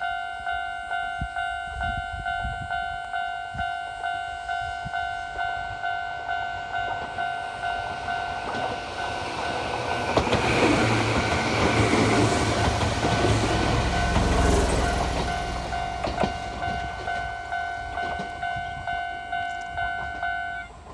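A Japanese level-crossing warning bell rings steadily, about three strokes every two seconds, and stops just before the end. Under it, the Chichibu Railway 7503F electric train passes over the crossing. Its wheels rumble and clack loudest from about ten to fifteen seconds in, then fade as it draws away.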